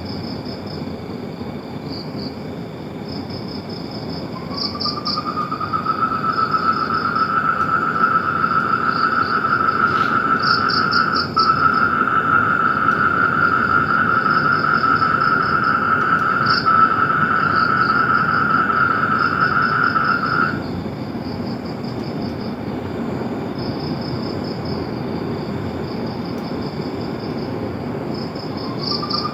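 A night chorus of frogs and insects. One long, steady trill starts about four seconds in, stops about twenty seconds in and starts again near the end. Under it, higher short pulsed chirps repeat throughout.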